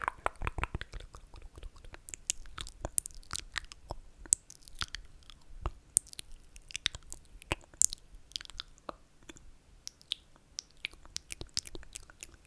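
Close-miked ASMR mouth sounds: a quick, irregular run of short wet clicks and smacks of the lips and tongue, made as slurping.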